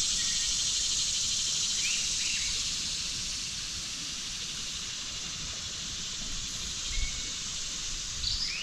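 Steady high-pitched insect chorus, easing off slightly after a few seconds, with a few short bird chirps about two seconds in and again near the end.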